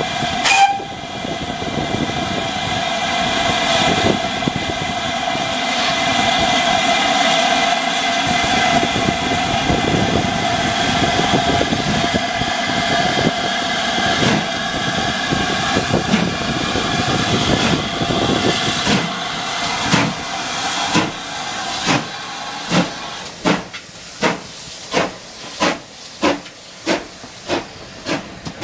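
GWR Saint-class 4-6-0 steam locomotive starting away: a steady hiss of steam at first, then, about twenty seconds in, sharp exhaust beats that come faster and faster as the engine gathers speed.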